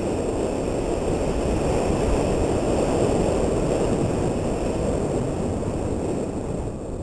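Steady wind noise buffeting a GoPro camera's microphone while riding a mountain bike, mixed with rumble from the ride.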